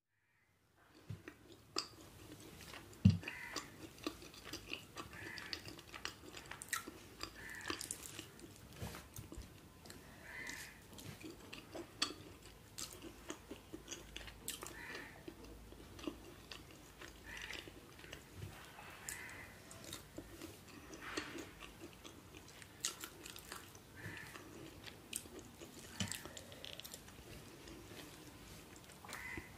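Close-miked chewing and biting of jalebi, a syrup-soaked fried sweet, with many sharp wet mouth clicks. The sound begins about a second in, and one louder knock comes about three seconds in.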